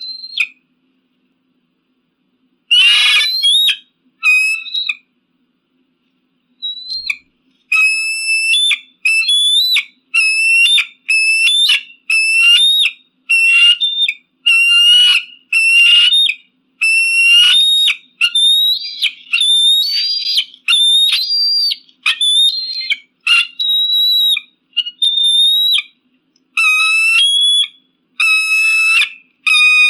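Eagle calling: a long series of short, high, piping whistle-like notes, repeated a little more than once a second from about eight seconds in, after one harsher, rougher call about three seconds in.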